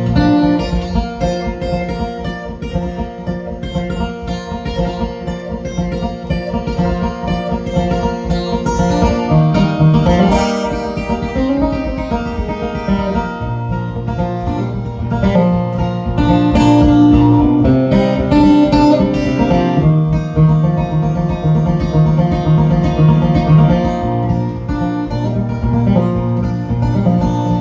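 Acoustic guitar playing an instrumental break with many quick plucked notes and shifting bass lines, with no singing.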